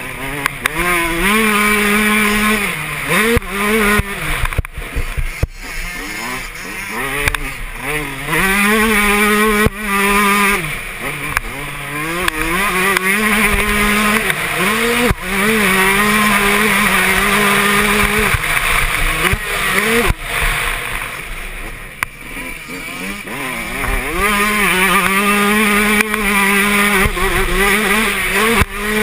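Yamaha YZ125 125cc single-cylinder two-stroke motocross engine ridden hard, revving up through the gears and holding high revs, then dropping off as the throttle shuts, several times over.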